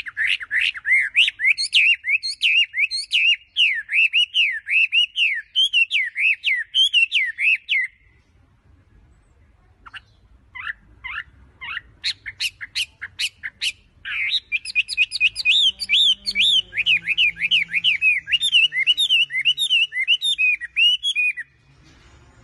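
Small birds chirping in quick runs of rising-and-falling notes. The chirping breaks off about eight seconds in and gives way to a few sharp single calls. Then a long run of chirping starts up again and cuts off a second before the end.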